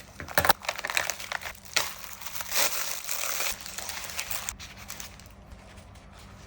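Crinkling and rustling of something being handled, with a few sharp clicks near the start. It is densest in the middle and quieter over the last two seconds.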